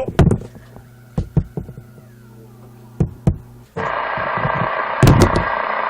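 A few sharp clicks and knocks over a faint low hum, then about four seconds in a steady hiss of CB radio static comes on suddenly, with a single thump soon after.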